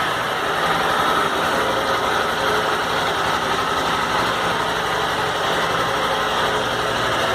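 Honda CG 150 Titan EX motorcycle's single-cylinder four-stroke engine idling steadily through its stock exhaust, just after being started.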